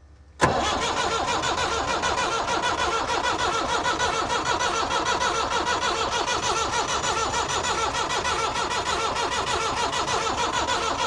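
Perkins 4203 four-cylinder diesel engine of a 1962 Lansing Bagnall forklift starting suddenly about half a second in and then running steadily, drawing its fuel from a pot of diesel as a test of whether the fuel pipe was causing the no-start.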